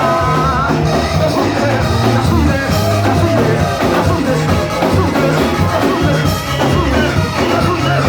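Church worship music from a band: steady bass notes moving in steps under a melody line.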